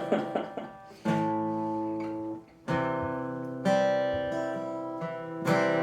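Acoustic guitar strummed, each chord let ring; new chords are struck about a second in and then every one to two seconds, with a brief break before the third.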